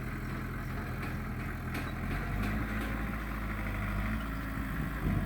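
Diesel engine of heavy earthmoving machinery running steadily, its note shifting and growing slightly louder about two seconds in, with a few faint knocks.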